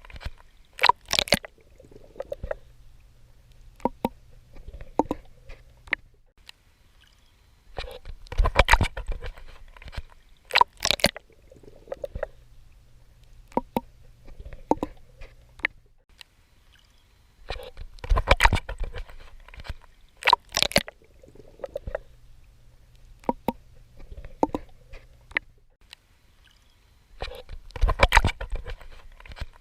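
Swimming in water: clusters of splashing strokes about every ten seconds, with softer gurgles and drips in between.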